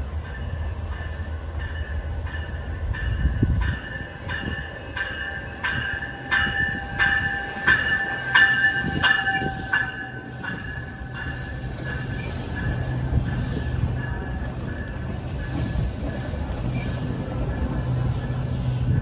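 A passenger train at a station platform, with a railway bell striking about twice a second for several seconds and leaving a steady high ring, over train rumble; a steady low engine hum comes in during the second half.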